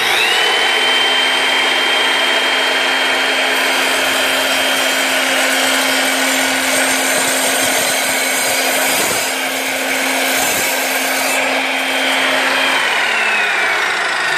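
Evolution Rage3 10-inch sliding miter saw spinning up to a steady high-pitched whine and running while its blade cuts a test piece of oak. Near the end the saw winds down, its pitch falling.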